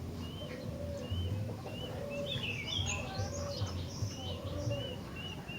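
Gentilang bulbul singing: short arched whistled notes repeated over and over, broken by a quick chattering flurry about halfway through, over a low steady hum.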